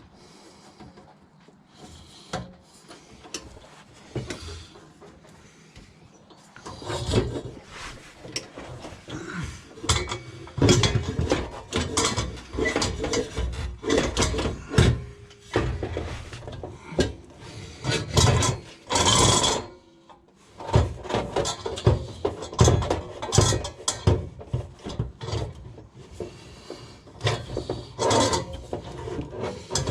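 Hand tools working on the old exhaust under the car: irregular rasping, scraping strokes with clicks and knocks, starting about seven seconds in after a quieter stretch.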